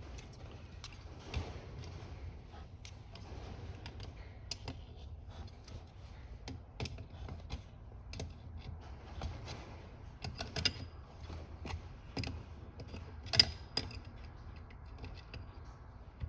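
Irregular small metallic clicks and taps of hand tools and parts being handled while reassembling a Holley-style carburetor, with one sharper click about 13 seconds in.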